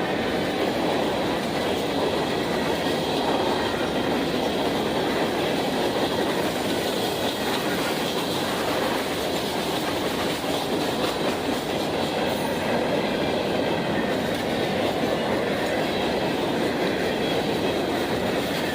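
A train rolling past on the track: steady wheel-on-rail noise from the passing cars, even in level throughout.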